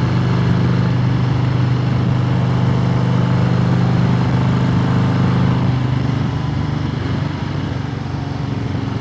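Harley-Davidson Road Glide Limited's 131-cubic-inch big-bore V-twin running at a steady engine speed while riding, heard from the rider's seat. About six seconds in the engine note eases off and becomes quieter.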